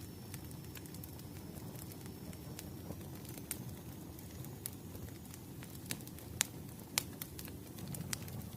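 Firewood burning in a fireplace: a steady low rumble of the flames with scattered sharp crackles and pops, the loudest two pops about six and a half and seven seconds in.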